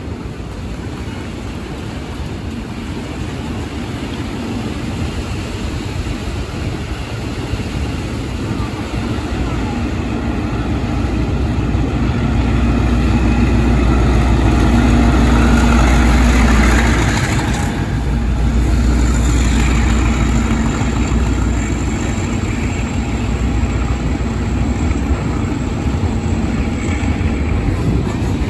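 A train approaching and passing. Its low rumble builds steadily to a peak a little past halfway, then eases slightly into a steady running noise.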